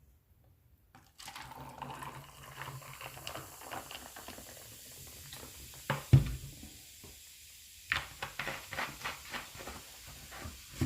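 Grape soda fizzing and pouring, with small clicks of handling, a thud about six seconds in as something is set down, and a run of sharper clicks near the end.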